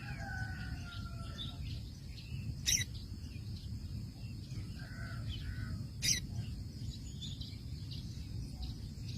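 Small birds chirping in short scattered calls, with a falling call in the first second and a half, over a steady high-pitched hum and a low background rumble; two sharp clicks come a few seconds apart.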